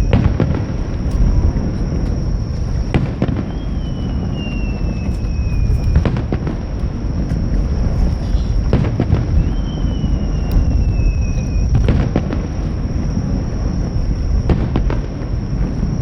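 Fireworks shells bursting about every three seconds over a continuous low rumble.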